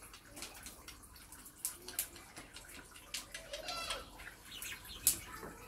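Caged pet birds chirping: quick, sharp high chirps throughout, with a longer warbling call a little past the middle.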